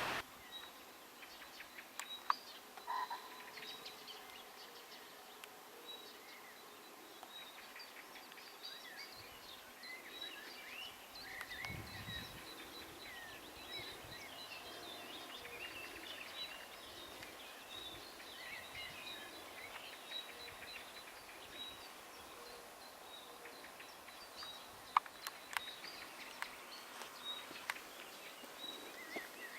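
Woodland ambience: many small birds chirping and calling, with a few sharp clicks.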